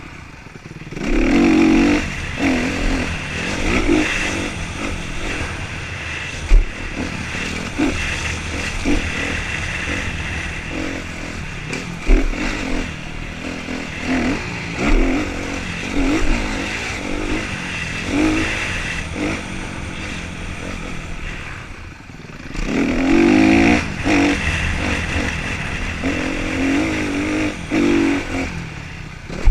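Motocross bikes revving hard around the track, engines rising and falling with each throttle blip. The bikes come loudest about a second in and again near the end, with a few sharp knocks in between.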